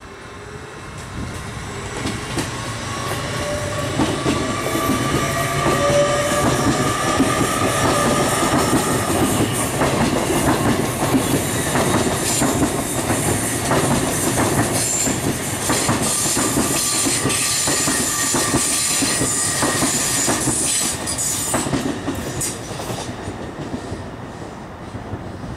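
Great Western Railway Intercity Express Train passing, its wheels clicking over the rail joints with a faint rising whine. It grows louder over the first few seconds and fades near the end.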